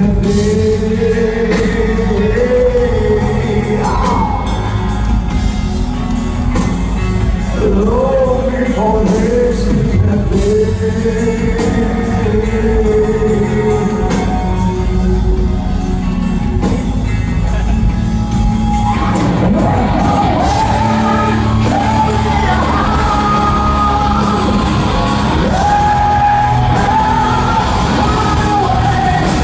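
Rock band playing live in a large hall, with held, bending lead notes over heavy guitars and drums, and shouts from the crowd. About two-thirds of the way through, the lead line moves higher.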